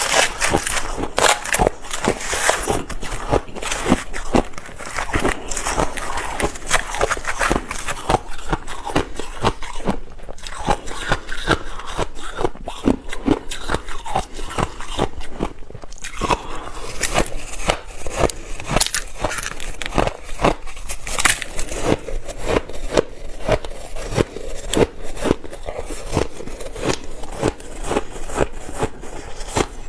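Ice being bitten and chewed: a dense, continuous run of crisp crunches and crackles, with brief lulls about ten and fifteen seconds in.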